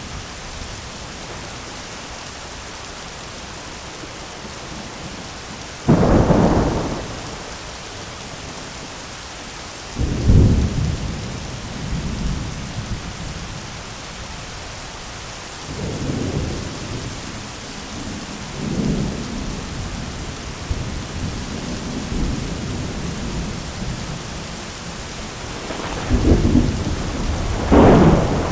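Thunderstorm: steady rain hissing throughout, with several claps and rumbles of thunder, sudden loud cracks about six and ten seconds in, softer rolls in the middle, and two sharp claps near the end.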